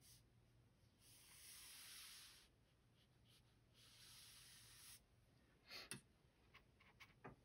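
Faint swishes of a paintbrush drawn across watercolor paper, two strokes of about a second each, followed by a few light clicks near the end.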